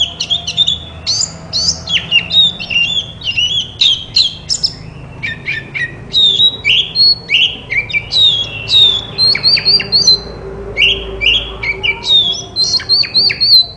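Oriental magpie-robin (kacer) singing a loud, fast, unbroken song of varied whistles, sliding notes and harsh chattering notes, hardly pausing between phrases.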